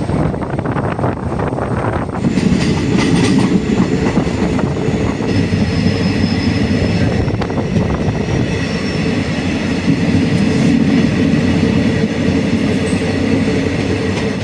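A passenger train running along the track, heard from aboard: a steady rumble and clatter of the coach wheels on the rails. It gets louder and heavier about two seconds in, with a faint high squeal from the wheels over it.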